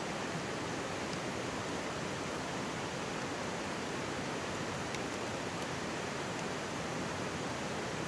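Mountain stream rushing in a steady, even murmur of flowing water. A few faint crackles from a campfire come through it.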